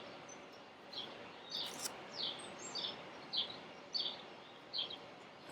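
A bird calling in a series of short, high, down-slurred chirps, roughly one or two a second, over a steady faint background hiss.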